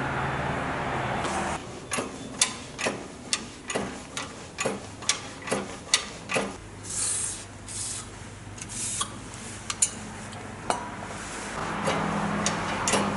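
A run of sharp clicks and light knocks, two or three a second, with a few short hissing rubs in the middle, from hand work on metal parts.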